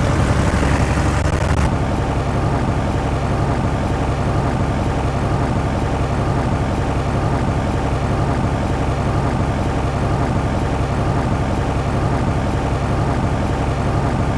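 Cessna 172's piston engine and propeller running steadily at about 1800 RPM for the magneto check of a pre-inspection run-up.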